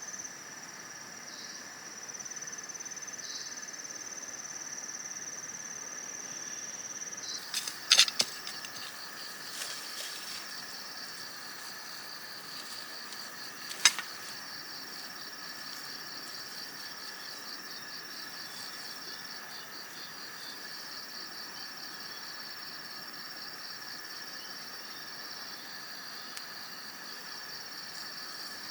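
Insects chirring: a steady high-pitched buzz, joined about eight seconds in by a second, pulsing trill. Two sharp knocks or clicks stand out over it, about eight and fourteen seconds in.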